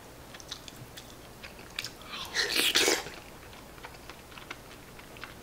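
Chewing and mouth sounds of a man eating tenshinhan with a spoon: small scattered clicks, and one louder noisy sound lasting under a second about two seconds in.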